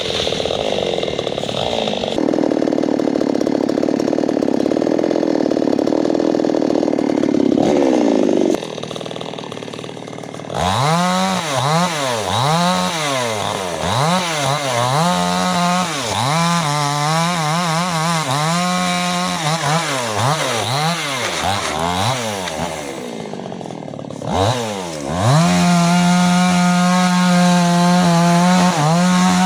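Two-stroke chainsaw, held at high revs for the first several seconds, then dropping away. It is then revved up and down again and again, goes quiet briefly, and is held at high revs again near the end.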